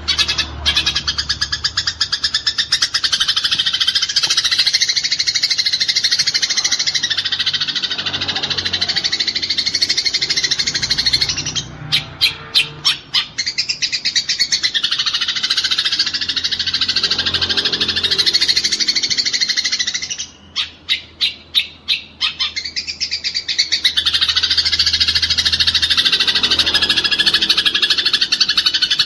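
Eurasian tree sparrows chattering in a dense, rapid stream of high chirps: the agitated calls of sparrows fighting. About twelve seconds in, and again about twenty seconds in, the stream breaks into separate sharp chirps, about four a second.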